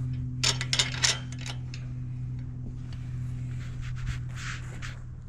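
A steady low mechanical hum, with a quick run of sharp clicks and knocks about half a second in and some softer rustling later.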